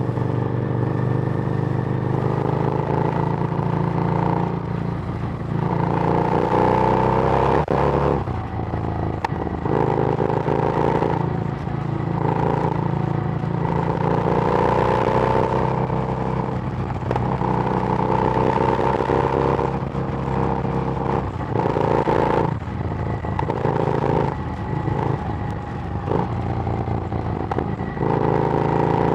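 Harley-Davidson Street Rod's liquid-cooled V-twin running through a Screamin' Eagle aftermarket exhaust while riding. The engine note rises in pitch again and again under throttle, then drops off between pulls, as the rider accelerates and shifts or rolls off.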